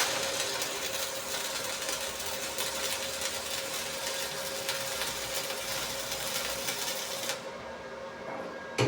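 Electric arc welding: a steady crackling hiss that cuts off suddenly about seven seconds in, over a constant machine hum. A sharp knock comes near the end.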